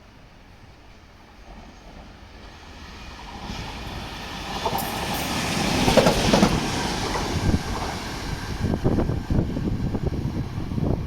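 E 483 electric locomotive and its train passing: the rumble swells as it approaches, peaks about halfway, then the wheels keep up a steady clatter of knocks over the rail joints.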